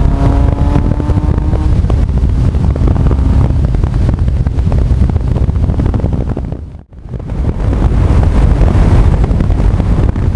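Heavy wind noise on the microphone of a GoPro riding on a Honda CB1300 Super Bol d'Or motorcycle, with the bike's inline-four engine note heard under it for the first few seconds, rising slightly in pitch before it fades into the wind. The sound drops out briefly about seven seconds in.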